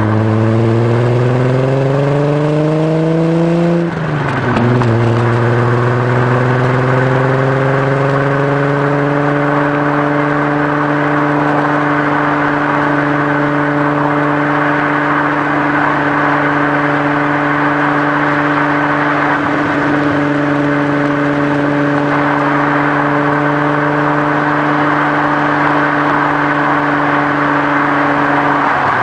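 VW Corrado's VR6 engine and exhaust under acceleration: the revs climb for about four seconds and dip at a gear change. They then climb again and settle into a steady drone at cruising speed, falling away right at the end.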